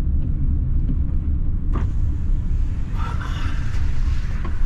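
Steady low rumble of a van driving, heard from inside the cab. There is a sharp click a little under two seconds in, and a brief rush of higher hiss near the end.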